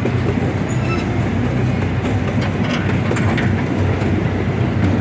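Train running on the rails: a steady low rumble with clickety-clack of the wheels, no horn sounding.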